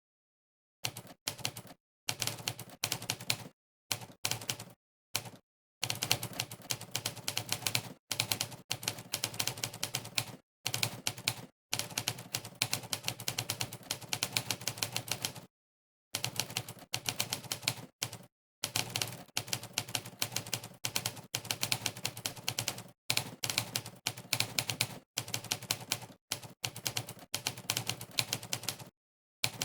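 Typewriter keystroke sound effect from the Monkeytype typing test, played for each key press during fast typing. It comes as rapid runs of sharp clacks that begin about a second in and break off several times into brief moments of dead silence.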